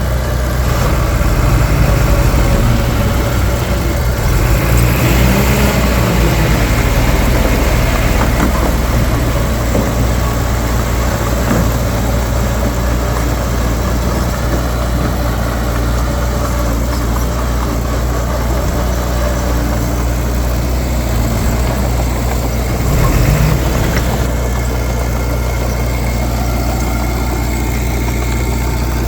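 Heavy diesel engine of earthmoving machinery running steadily, rising and falling in pitch briefly a few times.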